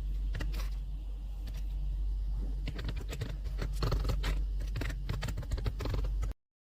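Keys of a membrane gaming keyboard being typed on, a few scattered clicks at first, then a quick dense run of key presses over a steady low hum; the sound cuts off suddenly near the end.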